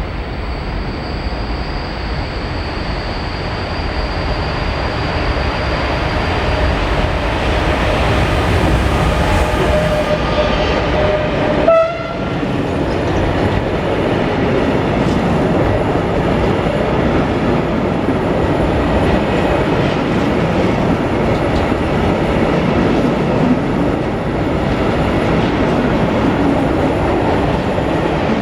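Freight train passing through the station, a continuous loud rumble of wheels on rail that builds over the first ten seconds. A pitched tone sounds for a few seconds and cuts off abruptly about twelve seconds in, after which the wagons roll past steadily.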